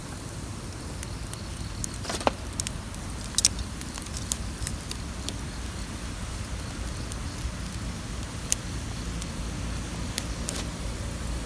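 Wood campfire crackling, with scattered sharp pops, the loudest about three and a half seconds in, over a steady low rush.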